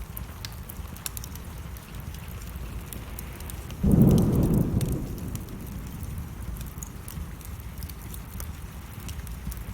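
Wood fire crackling in a fireplace under steady rain. About four seconds in, a sudden low thunder rumble sets in and fades over a second or so.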